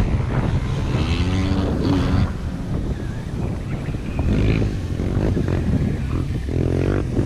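Electric motors of scale RC crawler trucks whining as they drive, over wind rumbling on the microphone.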